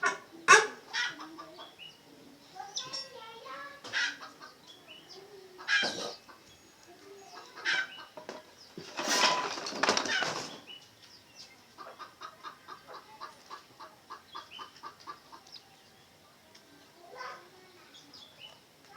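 Red junglefowl in their coop flapping their wings in a noisy burst, among several sharp knocks. Later comes a run of short quick sounds, about four a second.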